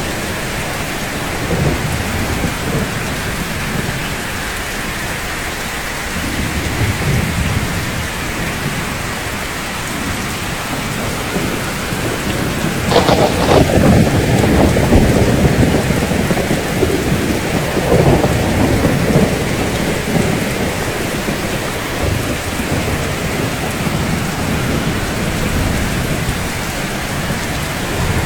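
Steady rain with rolling thunder. The thunder swells several times, and its longest, loudest roll comes about halfway through and lasts a few seconds.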